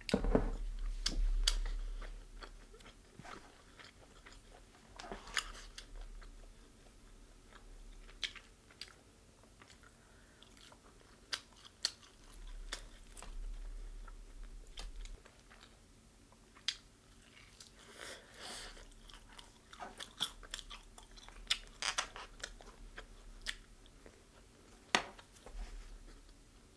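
A person eating deep-fried chicken close to the microphone: bites and chewing, with scattered short crunches of the fried coating.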